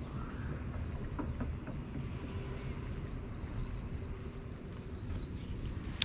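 A bird calling in two runs of quick, rising chirps, about four or five a second, over a steady low rumble.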